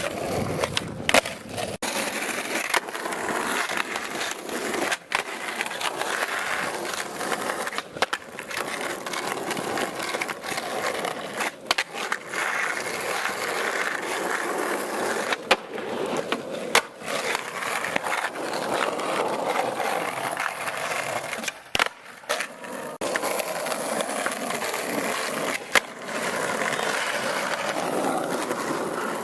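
Skateboard wheels rolling steadily, with sharp clacks of the board hitting the ground every few seconds as tricks are popped and landed.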